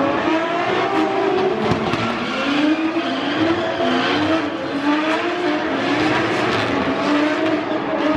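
Drift cars' engines revving hard, their pitch rising and falling again and again as they slide through the corners.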